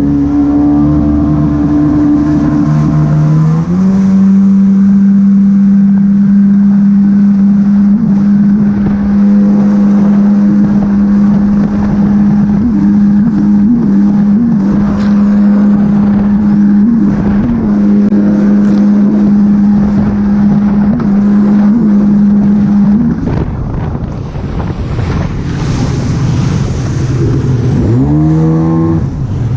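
Jet ski engine running hard at a steady high pitch. About three-quarters of the way through the throttle eases off and the engine note drops, then it revs back up near the end.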